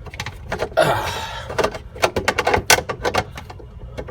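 Plastic refrigerator housing parts being handled and fitted together: a run of sharp clicks and knocks, with a brief scraping rustle about a second in.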